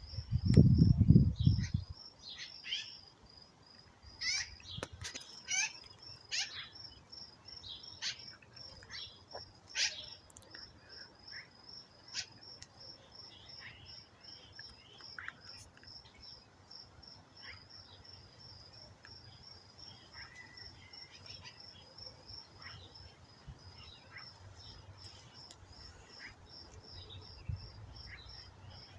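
Birds giving scattered short chirps and calls over a steady, high-pitched insect trill of even pulses. A loud low rumble fills the first two seconds.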